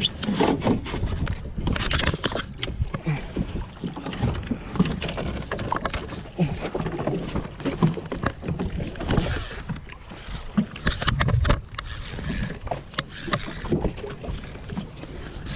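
Handling noise aboard a small fishing boat at sea: irregular knocks, clicks and rattles over a steady low rumble of wind and water.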